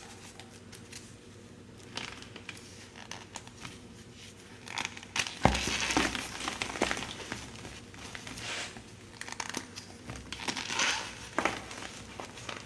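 Blocks of gym chalk being crunched and crumbled by hand, in uneven bursts of crackling, loudest about halfway through and again near the end.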